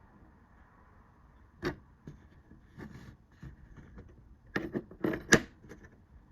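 Handling noise: a scatter of sharp clicks and knocks, with a loud cluster of them about four and a half to five and a half seconds in.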